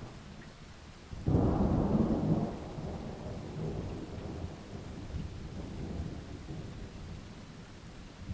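A thunderclap breaks sharply about a second in over steady rain, then rolls on as a low rumble that slowly dies away.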